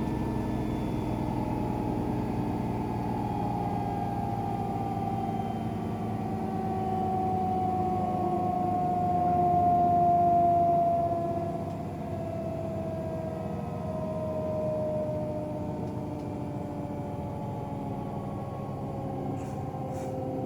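AEG Protex Plus washing machine winding down from its final spin: the motor and drum whine falls slowly in pitch as the drum slows, swelling briefly about halfway through before dropping off, with a few faint clicks near the end.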